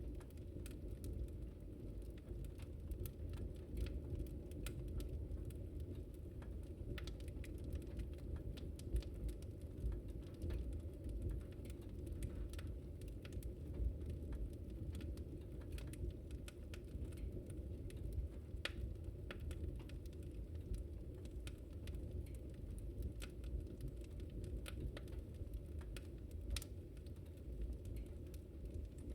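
Wood fire burning, with frequent irregular crackles and sharp pops over a steady low rumble of flame.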